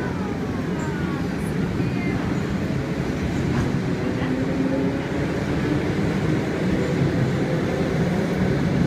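Electric commuter train running past the station platform: a steady low rumble that grows slightly louder.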